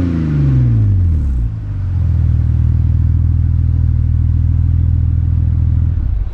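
BMW E60 528i straight-six through an aftermarket HE'ART exhaust, the revs falling away from a throttle blip at the start and settling into a steady idle, then the sound drops off near the end.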